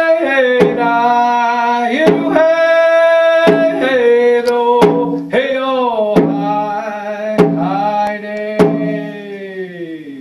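A man singing long held notes that slide down at the end of each phrase, keeping time on a hand-held frame drum with a single slow stroke about every one and a half seconds.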